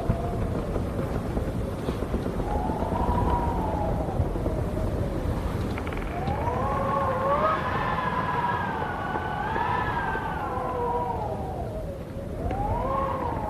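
Wind howling, its whistling pitch rising and falling in several long swells over a steady wash of wind noise.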